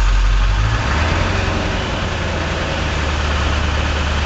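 Ford Power Stroke diesel V8 idling; about a second in its speed steps up to a faster, steady idle as the high-idle controller knob is turned.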